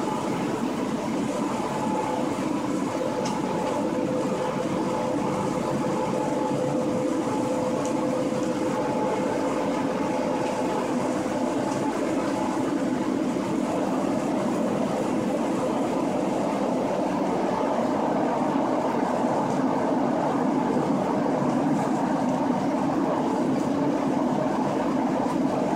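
Cab noise of a DB class 143 electric locomotive running at speed: a steady rumble of wheels on rail, with a faint steady whine that fades about halfway through. The noise grows slightly louder in the later part as the train runs into a tunnel.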